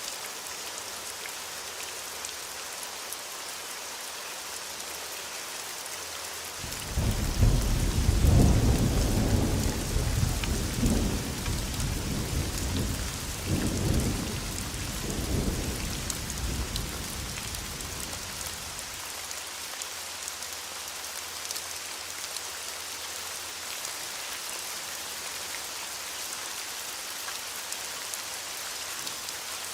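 Steady heavy rain hissing on a surface, with a peal of thunder that breaks in suddenly about a quarter of the way through, rolls in several deep waves and fades away before the halfway mark.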